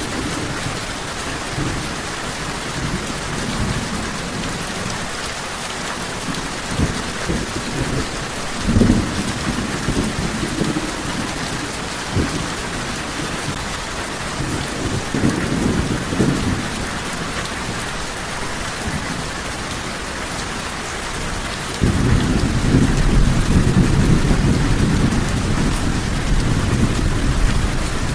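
Steady rain hissing, with low rolling thunder: rumbles swell briefly about a third of the way in and again mid-way, then a louder, sustained rumble comes in suddenly in the last quarter.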